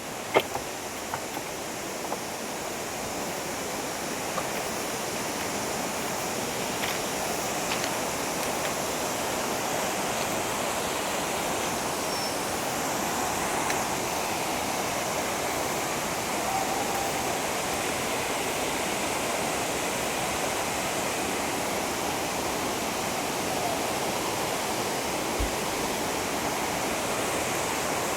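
Water falling over a small waterfall: a steady rushing that grows a little louder over the first few seconds, then holds even. A few brief taps sound just after the start.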